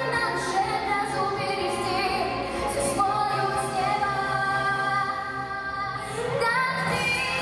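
A song: a female voice singing over musical accompaniment, with a rising vocal glide near the end.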